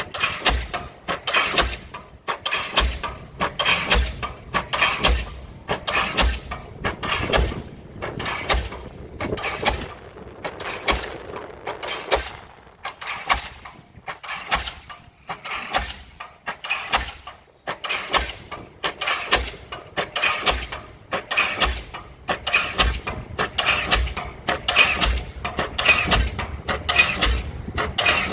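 Diesel pile hammer driving a pile: a steady run of heavy strikes, a little more than one a second, each stroke sharp and sudden. The blows sound lighter for a few seconds midway, then pick back up.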